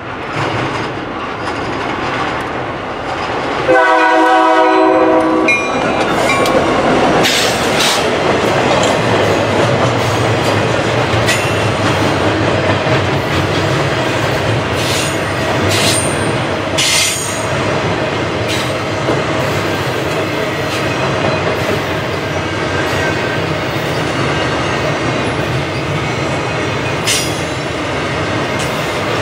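An EMD SD40-2F diesel locomotive passes at close range and sounds its air horn in one chord of about two seconds, about four seconds in. The long string of rail-rack cars of a continuous welded rail train then rolls by with steady wheel rumble and clickety-clack, and brief high screeches from the wheels now and then.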